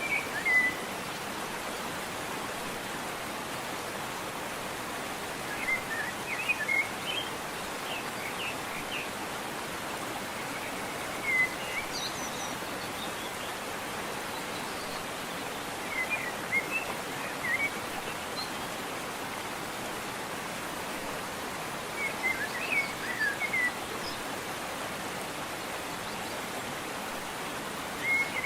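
Waterfall rushing steadily, with a songbird breaking in every five or six seconds with short bursts of high chirps.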